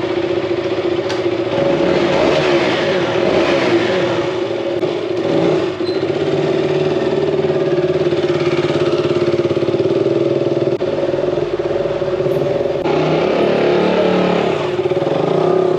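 Motorcycle engine running at riding speed, its pitch rising and falling near the end as it revs, with several abrupt changes where different riding clips are joined.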